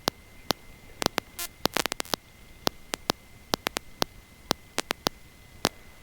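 Electrical static crackle: sharp, irregular clicks, a few a second, over a steady high whine and hiss.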